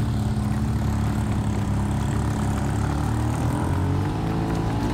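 Jeep engine running steadily in a low, even drone as it drives slowly down a rocky dirt trail, its pitch shifting slightly near the end.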